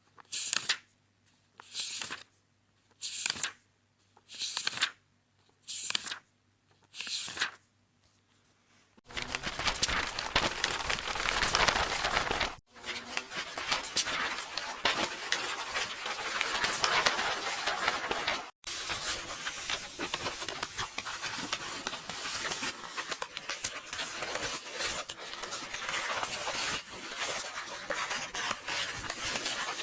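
Book pages being turned, a short papery swish about once a second, seven in all. About nine seconds in, this gives way to dense, continuous paper tearing and rustling, broken twice by a brief gap.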